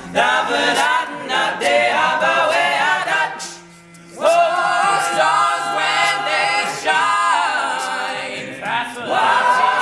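All-male a cappella group singing, several voices in harmony with no instruments, with a brief lull about three and a half seconds in before the voices come back in.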